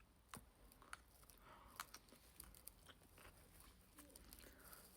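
Faint chewing of a mouthful of toasted sandwich, with scattered soft mouth clicks.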